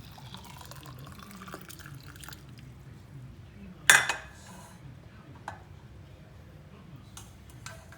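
Liquid dripping and small kitchenware handling sounds from the pot of just-boiled pandan and mint water, with one sharp clink of a dish or utensil about four seconds in.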